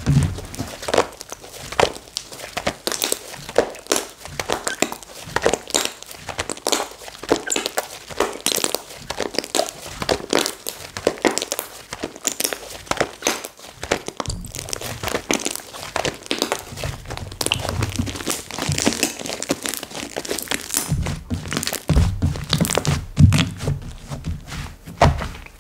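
Slime being squished and kneaded by hand: dense crackling and popping clicks, with dull thunks when it is pressed or slapped down, heavier in the later part.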